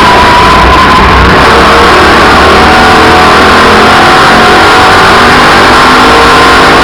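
Race car engines running hard on a speedway oval, a loud steady din with engine pitches wavering up and down as the cars accelerate and ease off.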